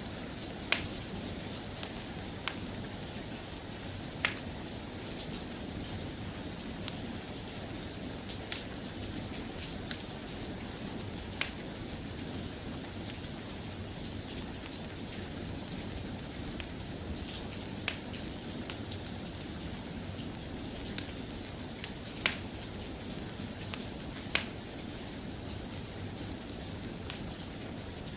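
Steady, soft rain, with a short, sharp click every few seconds.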